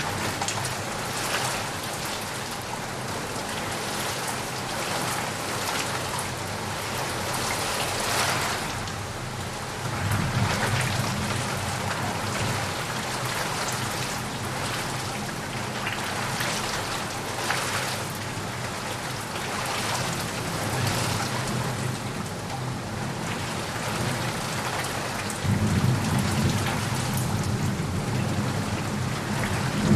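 Heavy rain falling steadily. Thunder rumbles low twice, about ten seconds in and again near the end.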